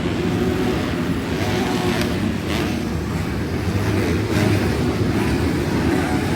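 Several 250-class motocross bikes racing around the track, their engines revving up and down over a steady din of engine noise.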